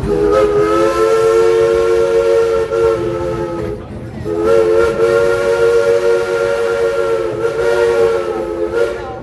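Steam locomotive whistle blown in two long blasts, each a chord of several steady notes, with a short break a little under four seconds in.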